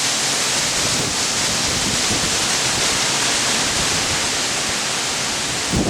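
Strong, gusty wind from the tail of a hurricane, a steady rushing hiss. A gust buffets the microphone with a low rumble at the very end.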